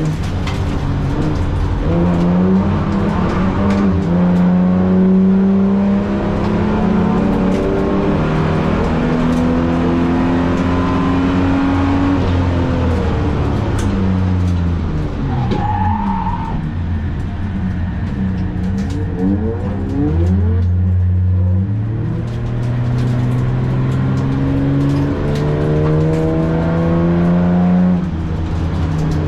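Holden VT's V6 engine driven hard through a lap: the engine note climbs under throttle, falls away through braking about halfway, with a brief tyre squeal, then climbs again under acceleration and dips once near the end.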